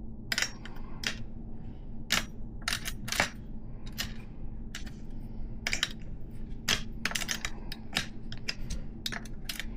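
Irregular light metallic clicks and taps of a BMX hub's axle nuts and parts being worked by hand, about a dozen in all, over a steady low hum.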